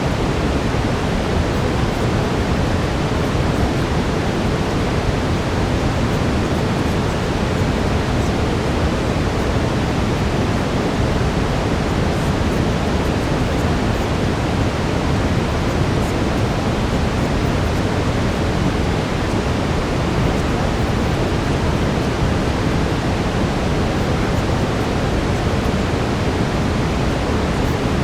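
Steady brown noise, a deep even hiss that does not change, with a faint steady tone just beneath it.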